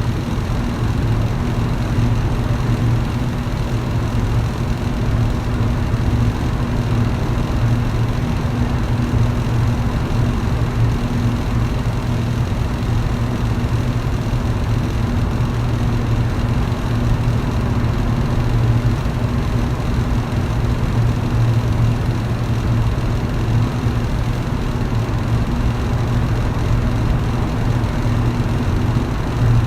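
Electric fan running steadily: a low, even motor hum under a constant rush of air.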